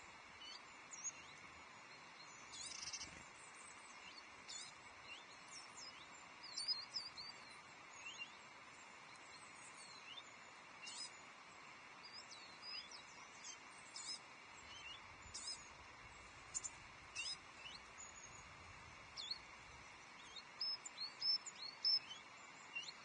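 Small songbirds chirping and calling again and again: short, high, quick-sweeping notes over a steady background hiss.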